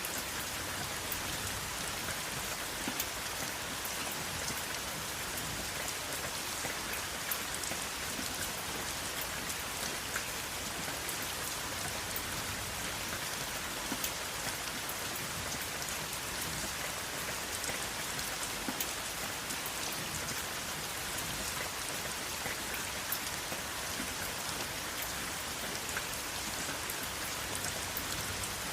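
Steady rain falling on a surface, a dense even hiss with many individual drops ticking sharply through it, without thunder.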